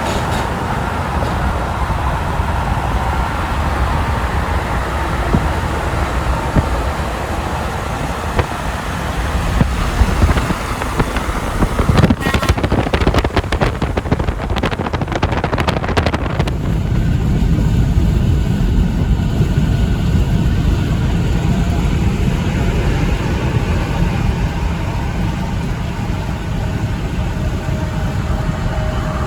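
Road traffic with heavy trucks passing by. Past the halfway point the sound changes abruptly to a deeper, steadier rumble.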